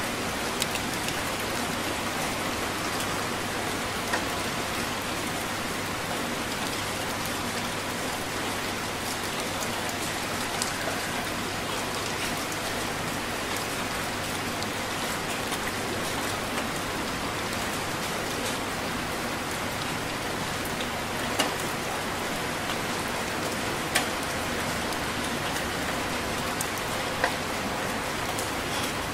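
Heavy rain falling steadily, with a few sharper single drop hits now and then, the clearest near the end.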